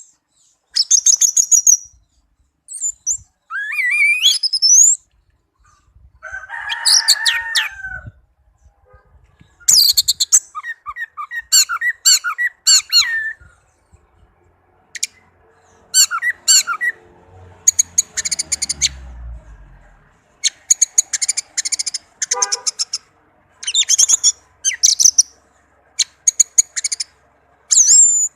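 Orange-headed thrush (anis merah) singing: a run of varied, high whistled and trilled phrases, each a second or two long, with short pauses between them.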